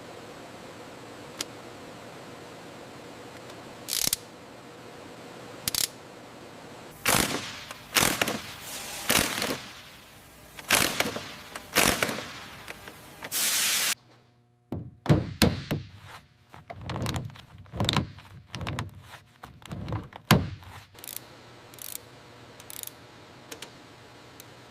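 Mechanical workshop sounds: a few scattered knocks, then a run of loud thunks, a short hiss that cuts off suddenly halfway through, and a quick string of knocks and clicks that thins out near the end.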